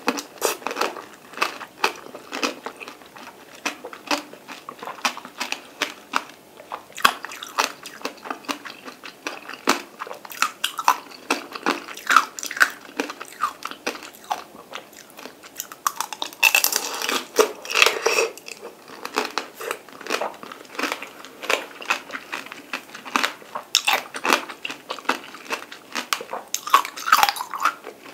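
Biting and chewing peeled mandarin orange segments: a steady run of small irregular mouth clicks and pops, busier in a spell about two-thirds through and again near the end.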